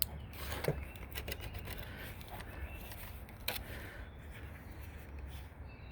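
Faint scraping and a few sharp clicks of hand work at the edge of a heavy-duty pet screen in its frame, over a steady low hum.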